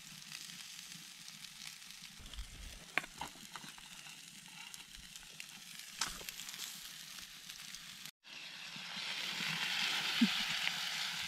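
Lake trout sizzling as it fries, with scattered sharp pops and crackles. About eight seconds in the sound breaks off, and a louder steady hiss follows.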